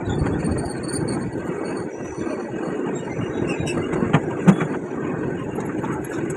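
A train running through a station, its wheels rumbling steadily on the rails, with two sharp clanks about four seconds in.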